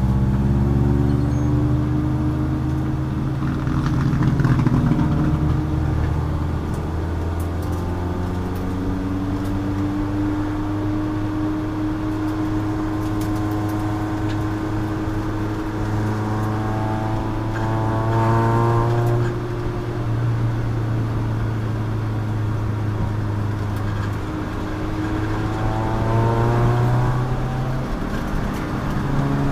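Endurance race car's engine at racing speed, its pitch climbing slowly as it pulls hard, then dropping sharply at a shift or lift about two-thirds of the way through and again near the end.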